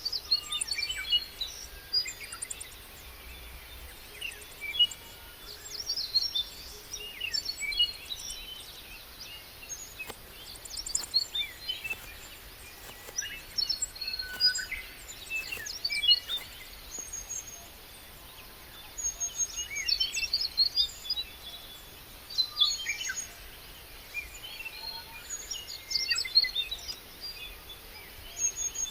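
Several birds chirping and calling, short high notes and trills coming in busy clusters every few seconds over a faint outdoor background.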